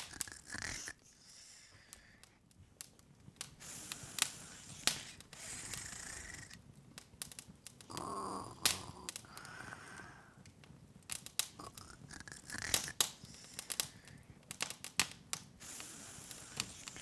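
Open fire crackling: irregular sharp pops and snaps over a faint hiss, with a couple of softer, longer sounds around eight and ten seconds in.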